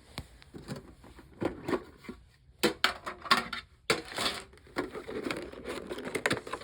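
Plastic packaging being handled and crumpled, crinkling and crackling in quick, irregular snaps.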